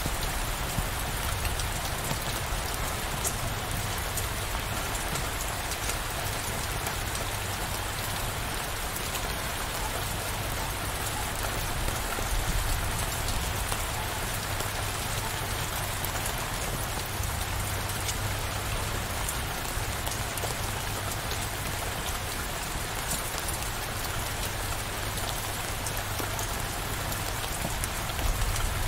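Steady downpour of rain, an even hiss of falling drops with no break.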